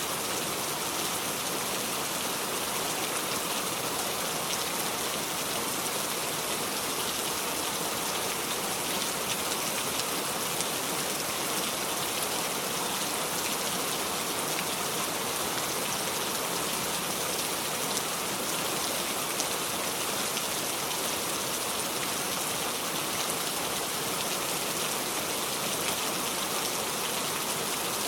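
Steady heavy rain falling without thunder, an even hiss with faint scattered drop ticks.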